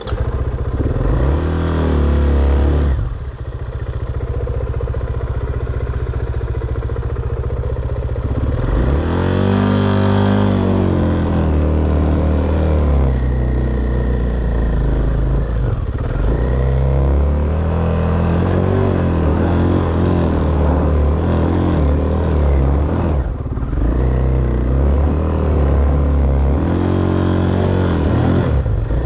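Dirt bike engine running hard and revving up and down with the throttle. There are sharp climbs and drops in pitch near the start, about a third of the way in, and again near the end.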